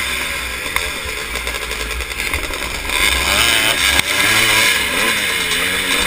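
Vintage motocross motorcycle engines revving under racing load, their pitch wavering up and down as the throttle opens and closes. A sharp knock sounds about four seconds in.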